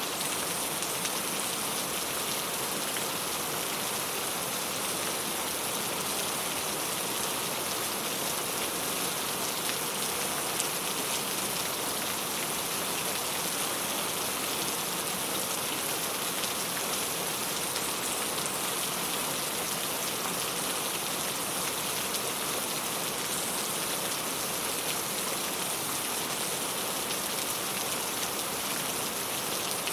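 Steady rain falling on a clay tile roof, a dense, even patter.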